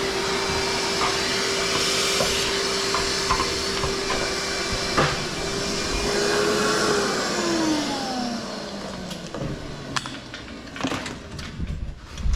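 Shop vacuum running with a steady whine and rushing hiss, then switched off about seven seconds in and winding down in pitch. Scattered clinks and knocks of tools follow near the end.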